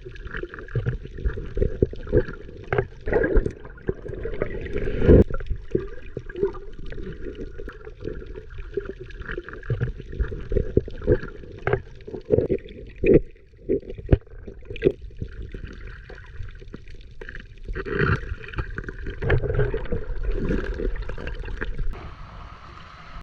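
Water splashing and sloshing in uneven bursts, with frequent sharp knocks and splashes throughout.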